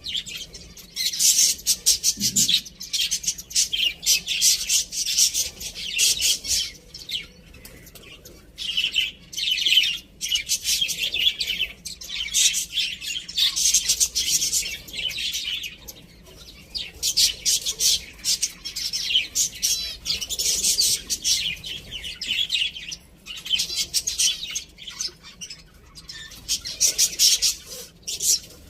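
Small birds chirping and chattering in rapid, high-pitched bursts of a few seconds each, with short pauses between them.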